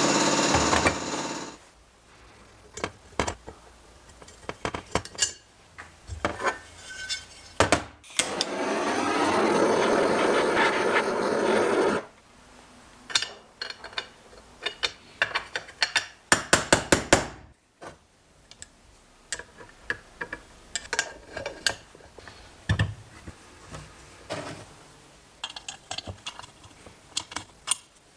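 Workshop tool sounds from work on a moped: irregular clicks, taps and clinks of hand tools on parts. A power tool runs briefly at the start and again for about four seconds in the middle.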